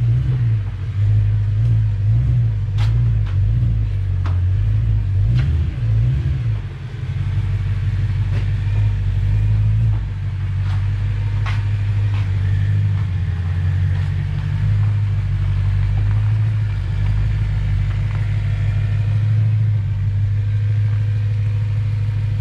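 BMW E92 M3's 4.0-litre V8 running at low revs while the car reverses slowly. The engine note wavers for the first several seconds, then settles to a steady idle from about seven seconds in. A few light clicks are heard.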